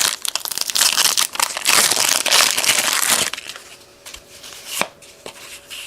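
Trading-card pack wrapper being torn open and crinkled for about three seconds. After that come a few light clicks and rustles as the cards are handled.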